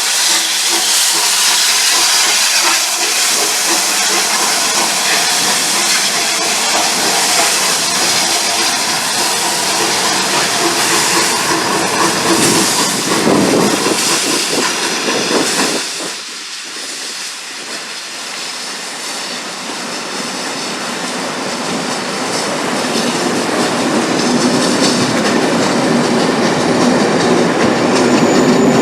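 Steam locomotive and its coaches on the move: hissing steam with wheels clicking over the rail joints. The sound drops suddenly a little past halfway, then builds steadily again toward the end.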